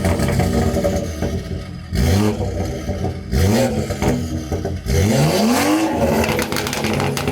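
Car engine idling and being revved three times, each rev rising and falling in pitch, the third longer and higher than the first two.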